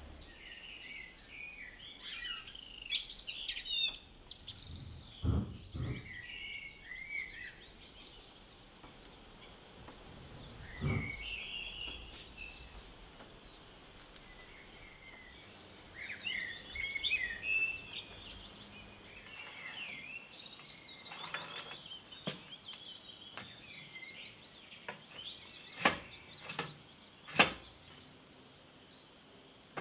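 Small birds chirping and singing on and off, with a few sharp knocks, the loudest two close together near the end.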